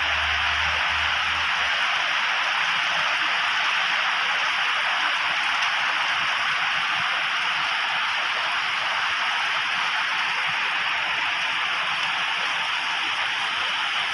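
Heavy rain pouring down in a steady, even downpour. A low hum underneath stops about two seconds in.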